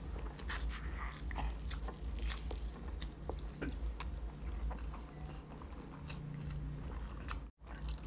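Close-up wet chewing and mouth smacking of people eating big handfuls of sauced instant noodles, with irregular small clicks and squelches.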